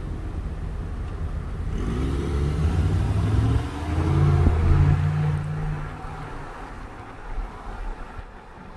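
A car engine accelerating, louder and rising in pitch from about two seconds in, then easing off after about six seconds, over a steady low traffic rumble.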